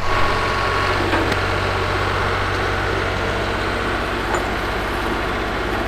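1968 Atlas excavator's engine running steadily with an even, low throb.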